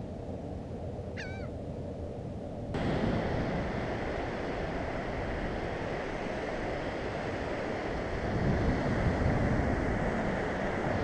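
A single short bird call about a second in, then, after an abrupt cut about three seconds in, the steady wash of surf breaking on a beach, swelling a little near the end.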